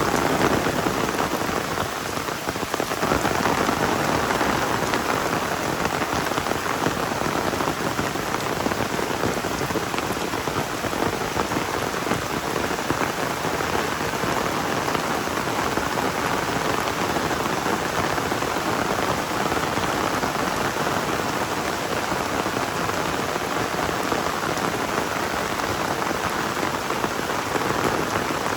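Heavy rain pouring steadily, a dense, even hiss of countless drops.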